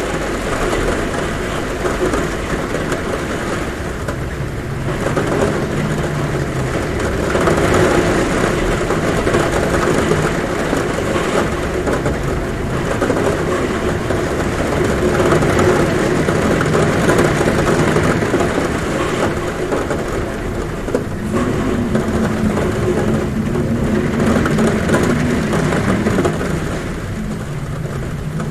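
Heavy rain drumming steadily on a roof, with a low humming wind that swells and fades.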